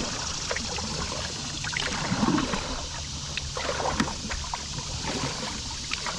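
Water splashing and dripping around a kayak under way, with irregular small splashes from the strokes.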